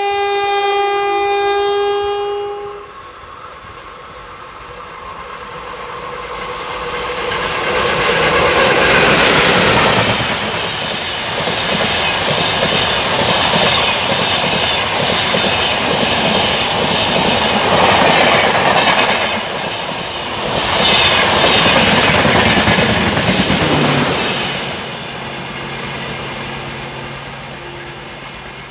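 A locomotive horn sounds steadily for about three seconds. Then an express train of ICF coaches approaches and passes at speed, building to a loud rush of wheels and rail clatter with several surges as it goes by, and easing off near the end.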